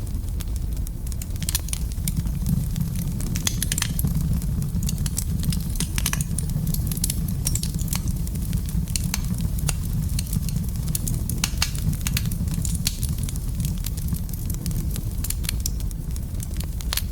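Fire burning in a fireplace: a steady low rumble with frequent irregular crackles and pops.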